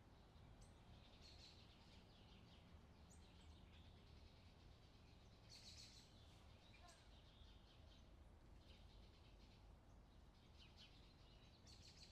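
Faint summer outdoor ambience with small birds chirping on and off over a low steady background.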